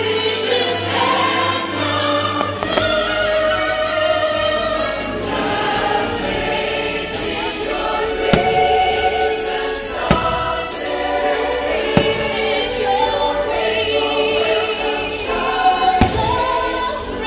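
Fireworks show soundtrack: a choir singing over orchestral music, with several sharp firework bangs cutting through from about eight seconds in.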